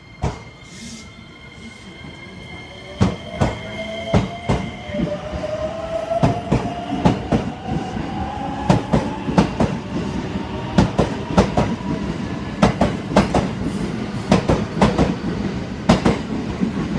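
JR West 321 series electric train pulling away from the platform: its traction motors give a whine that rises in pitch as it gathers speed. Wheels click over rail joints, the clicks coming faster and louder as the train accelerates.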